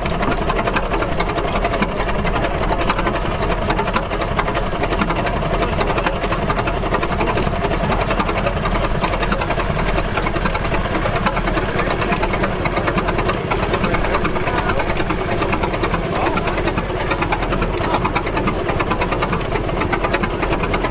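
Antique gas engine running steadily with a rapid, even mechanical clatter and no pauses in its firing.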